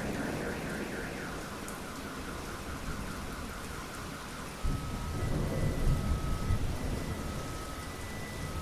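Steady rain in a thunderstorm. A rumble of thunder fades at the start, and a new low rumble breaks suddenly about halfway through. Faintly behind it, an electronic alarm warbles rapidly, then gives a series of steady tones about a second long.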